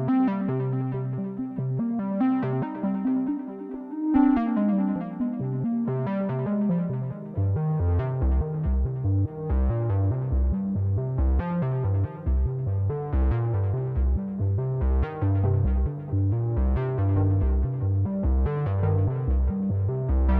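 Behringer Poly D analog synthesizer playing: a line that slides down in pitch about four seconds in, then a rhythmic, sequence-like deep bass line of short repeated notes from about halfway through, under brighter notes that strike roughly every two seconds.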